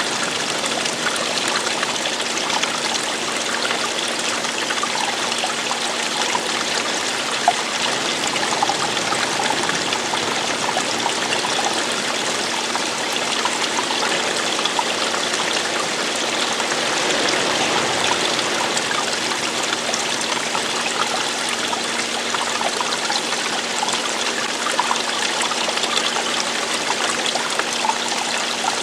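Running water from a small stream or cascade, a steady rushing and trickling with small splashes.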